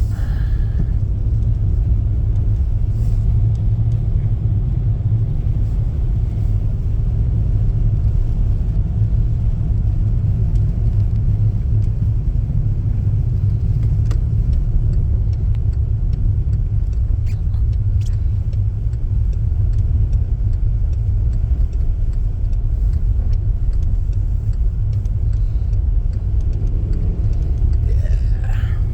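Steady low rumble of a car driving, heard from inside the cabin: engine and road noise without a break.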